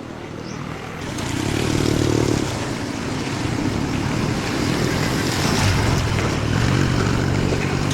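A motor vehicle running: a steady low engine rumble under a rushing noise that grows louder about a second in and then holds.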